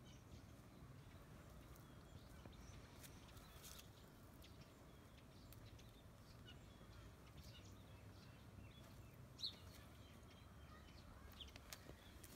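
Near silence: quiet hillside ambience with a few faint, short bird chirps, the most distinct about nine seconds in, and occasional light clicks and rustles as dry cut branches are handled.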